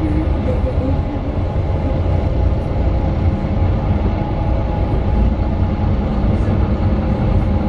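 Cabin sound of a Mercedes-Benz Citaro 2 city bus with an OM 936 six-cylinder diesel and ZF Ecolife automatic gearbox under way: a steady low engine and road rumble with a faint, even whine over it.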